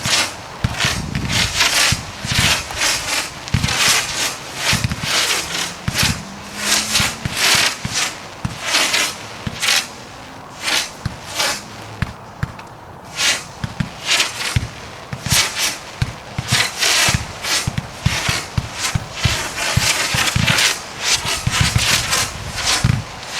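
UFO consumer fireworks cake firing: a rapid, uneven run of shots and bursts, several a second, easing off for a few seconds around the middle before picking up again.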